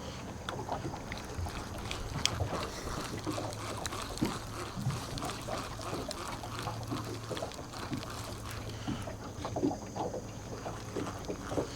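Small fishing boat trolling slowly on a river: a steady low motor hum under irregular lapping and splashing of water against the hull.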